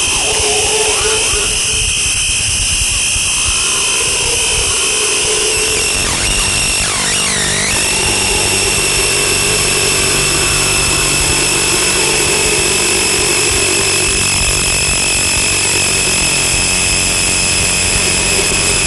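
Harsh noise music: a loud, dense wall of noise with several steady high whistling tones above it. A wavering pitch sweep comes in about six seconds in, and a pulsing low layer runs underneath from then on.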